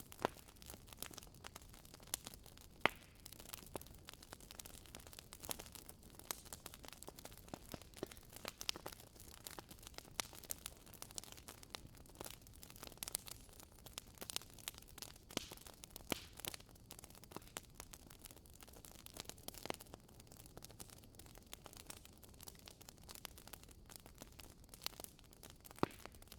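Bonfire crackling: a constant stream of small, irregular pops and snaps from burning wood, with a sharper pop about three seconds in and another near the end.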